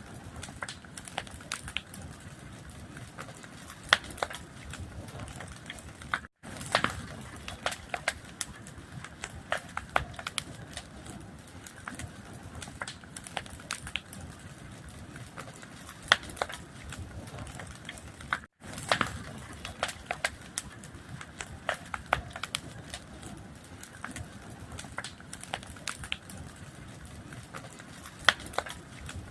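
Fire crackling, with irregular sharp pops and snaps over a steady hiss. The sound cuts out for an instant twice, about 6 seconds in and about 18 seconds in.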